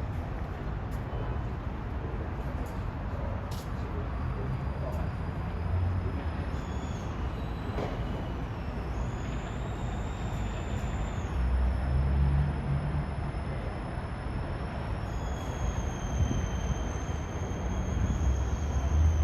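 Steady low rumble of trains moving at a station, swelling about two-thirds of the way through and again near the end, with thin high-pitched squeals or whines held for a few seconds at a time and a few faint clicks.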